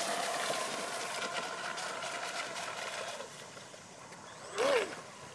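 A boat motor running steadily, fading out about three seconds in, then a brief loud shout near the end.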